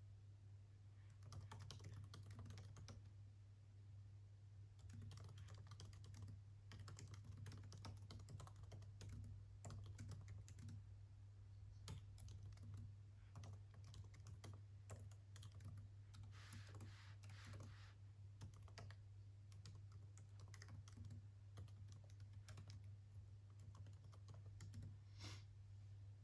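Typing on a computer keyboard: bursts of quick keystrokes broken by short pauses, over a faint steady low hum.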